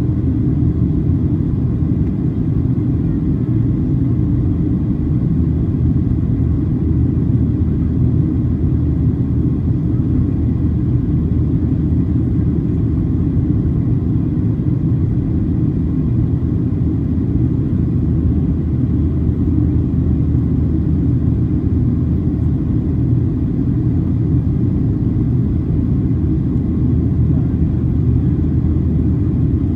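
Steady low cabin rumble inside a Boeing 737-800 in flight: the noise of its CFM56-7B engines and the airflow, holding even with no change in pitch and a faint steady tone above it.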